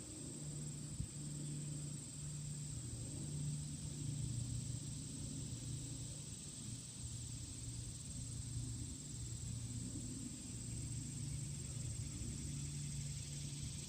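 Late-summer insect chorus: a steady, unbroken high trill, with a low hum underneath that swells and fades.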